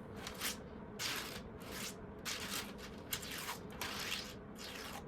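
A 3D-printed plastic octagon fidget toy being worked in the hands, giving a string of short plastic scraping and rubbing swishes at an uneven pace of about one or two a second.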